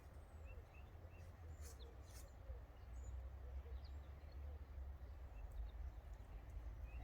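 Faint, scattered bird chirps over a steady low rumble, with a couple of sharp clicks about two seconds in.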